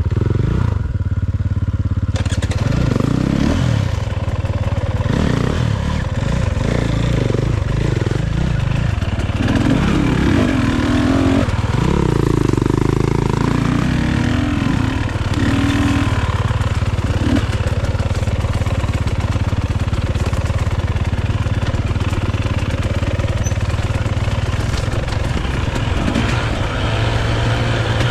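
Dirt bike engine revving up and down repeatedly as the bike is ridden over rough terrain, then running at a steadier pace through the second half.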